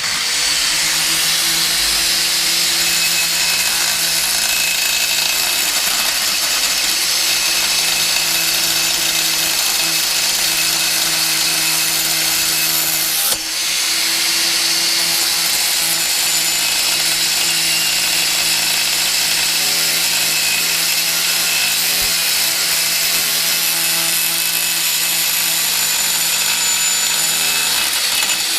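Angle grinder with a stainless-steel cutting disc running continuously and cutting into a stainless steel motorcycle header pipe: a steady motor hum under loud grinding, with a brief dip about thirteen seconds in.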